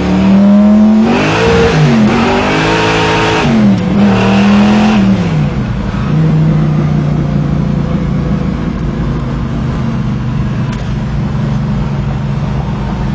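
Naturally aspirated 572 cubic-inch big-block V8 in a manual-gearbox Impala pulling hard through the gears on dual 3-inch exhaust: the revs climb and drop at each upshift, loudest about one to three and a half seconds in, then settle into a steady drone from about six seconds in.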